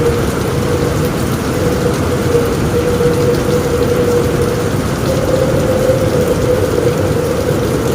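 Heavy rain pouring on a roof, a dense steady patter, with a steady hum-like tone running under it that shifts slightly higher about five seconds in.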